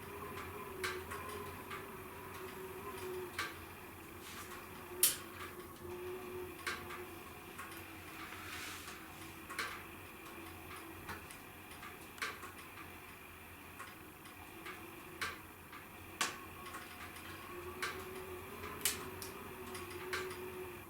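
Wood fire crackling in a fireplace: irregular sharp pops and snaps over a faint steady hiss, with one louder pop about five seconds in.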